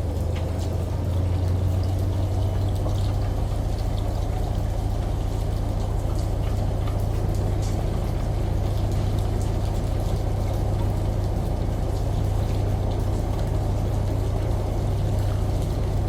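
Washing machine running with a steady low hum under a constant wash of running water, with scattered small drips and ticks.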